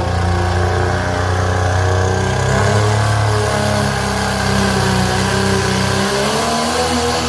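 A pulling truck's engine running steadily at a low rumble, its pitch wavering slightly. About six seconds in, the deepest part of the sound drops away.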